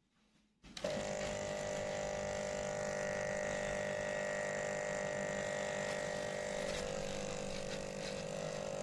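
Aquarium air pump (aerator) starting abruptly under a second in and then running with a steady mechanical hum.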